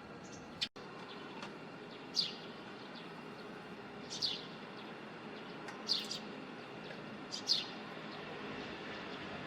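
Eurasian tree sparrows chirping: single short, sharp downward chirps every second or two, with a few fainter ones between.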